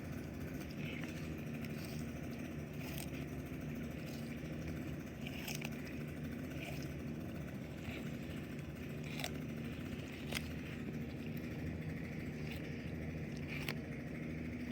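Steady low mechanical hum, like an engine running, with a few sharp crunching clicks scattered through it: a sulcata tortoise biting into a watermelon rind.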